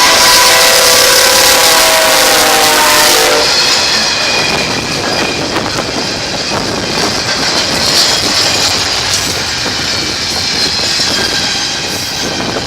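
A train horn sounds one blast of about three seconds, then the train rolls past with wheels clicking over the rail joints. Wind buffets the microphone throughout.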